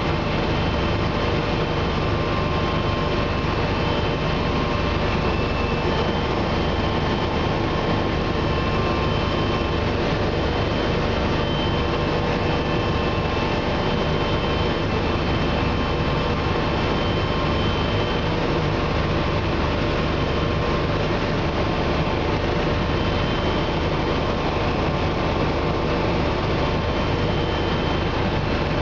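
Bell 429 twin-turbine helicopter in cruise, heard from inside the cabin: a steady, loud drone of rotor and engine noise with several constant high whining tones above it.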